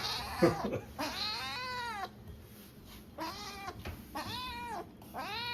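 Abyssinian kitten meowing over and over, about five meows, each rising then falling in pitch, the second one the longest.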